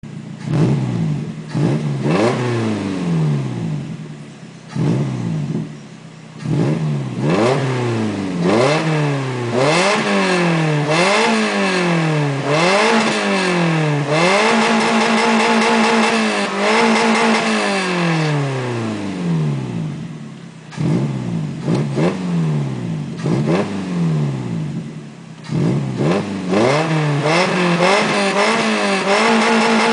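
Suzuki Aerio's four-cylinder engine revved through its exhaust in repeated quick blips, each rev rising sharply and falling away, with a few longer held revs in the middle and near the end. To the owner the exhaust now gives a whooshing "shuuuum" like an added intake.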